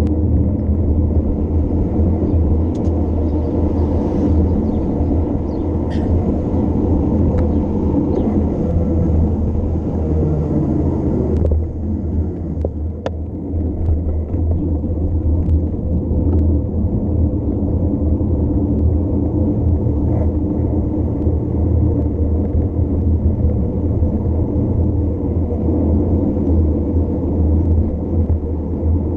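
Heavy wind rumble buffeting a bike-mounted camera's microphone, with scattered sharp ticks during the first half.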